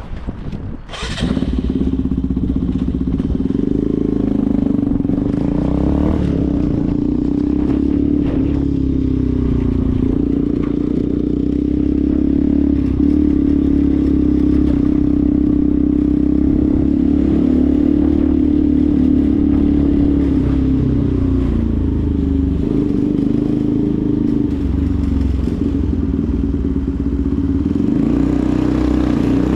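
Benelli TNT 125's single-cylinder engine starting up about a second in, then running with a steady note that wavers only slightly.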